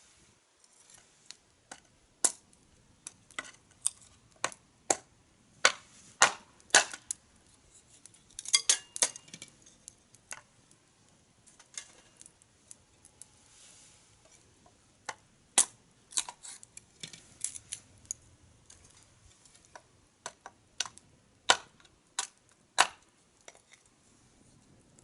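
Firewood crackling as it burns: irregular sharp pops and snaps, a few of them loud, with quieter stretches between.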